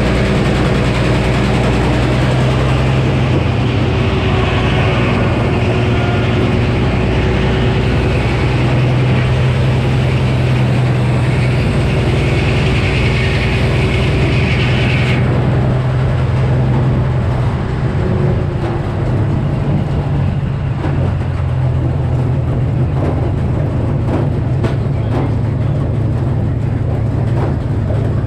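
Frick sawmill running with its 48-inch circular saw blade: a steady engine-driven drone with a high rasping hiss of the blade cutting a large poplar log, which stops abruptly about halfway through as the cut ends. The mill keeps running after that, with a few scattered knocks.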